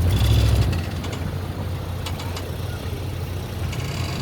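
Truck engine running steadily with a low rumble, briefly louder for the first second or so, with a few light clicks about two seconds in.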